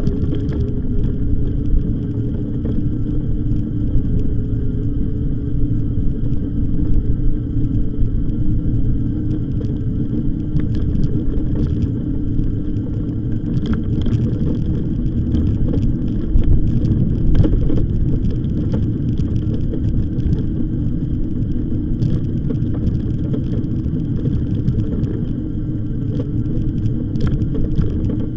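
Wind buffeting the microphone and tyre rumble from a moving e-bike: a constant low rumble with occasional light ticks.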